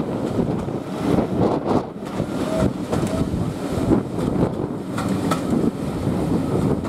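Running noise of a moving railway passenger carriage heard at an open window: a steady rumble of wheels on the track, with wind on the microphone and a couple of sharp clicks about five seconds in.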